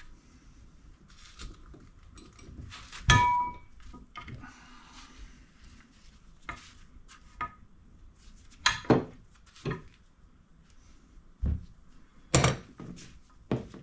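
Scattered metal clinks and taps as a cotter pin is worked into the hole in a bench vise's screw assembly, the loudest about three seconds in with a short ring, and several more knocks in the second half.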